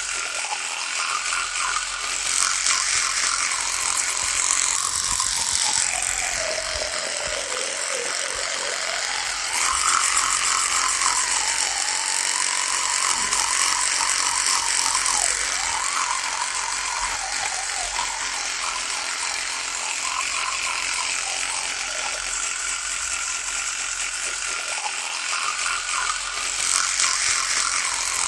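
Electric toothbrush buzzing steadily, its pitch wavering and dipping lower about six to nine seconds in before rising again.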